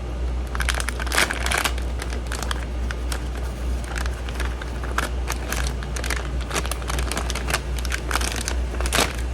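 Crinkling and rustling of something being handled, with many small irregular crackles, over a steady low hum.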